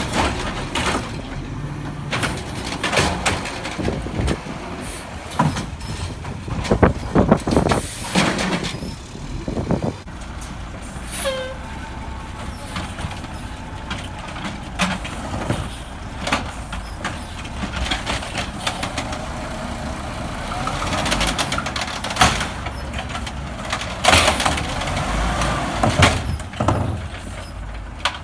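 Garbage truck running, with a steady low engine sound broken by many sudden loud hisses and bangs, thickest about a quarter of the way in and again near the end.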